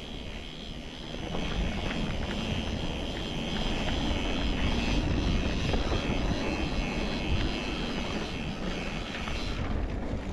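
Wind rushing over the microphone and tyre noise from a mountain bike riding down a dirt trail, getting louder about a second in as it picks up speed.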